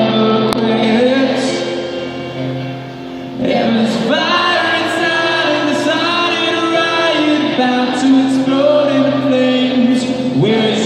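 Live rock concert music: held keyboard chords under sung vocals, echoing in a large hall. The music dips about two seconds in and swells back up about three and a half seconds in.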